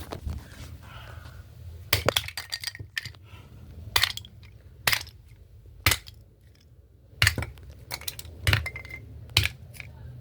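A run of about seven sharp knocks and clinks at uneven intervals, a hammer striking the broken pieces of a bird house.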